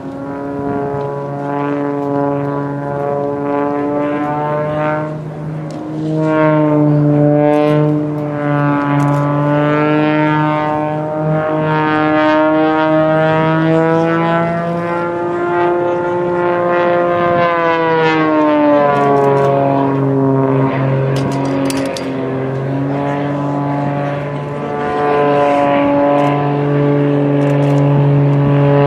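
Propeller aircraft engine droning, its pitch slowly rising and falling, with a clear drop about two-thirds of the way through.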